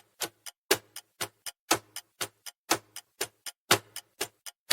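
Countdown timer sound effect: a clock ticking about four times a second, with a stronger tick once each second.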